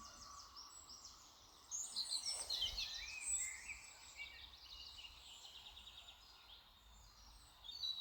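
Small birds singing: short whistles and fast chirping trills, busiest and loudest from about two seconds in for a second or so.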